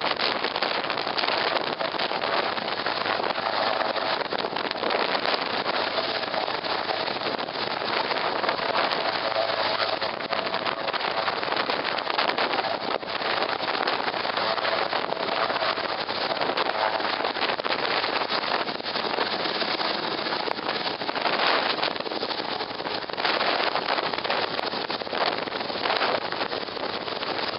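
Army Cougar helicopter running: a steady rushing noise from its turbines and rotors, with a faint whine held for much of the first half.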